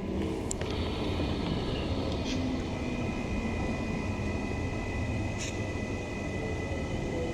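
Cabin noise of a Queensland Rail NGR electric multiple unit slowing into a station: a steady low rumble with a thin, steady high whine over it, and two faint clicks, about half a second in and again near the five-and-a-half-second mark.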